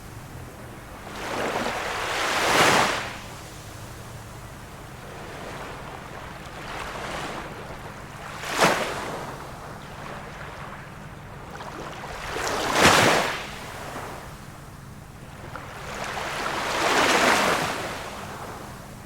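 Small waves of a calm sea breaking on the shore, four of them a few seconds apart. Two are short, sharp slaps and two swell up and wash in more slowly, with a soft steady wash between them.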